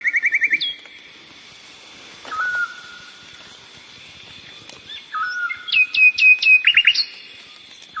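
Birds singing and calling: a quick trill of short repeated notes at the start, a short whistle a little over two seconds in, and a run of sharp downward-slurred notes near the end, over a faint steady high hiss.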